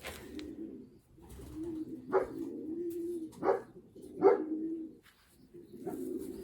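Young racing pigeons cooing: low, drawn-out coos, three of them opening with a short, louder note.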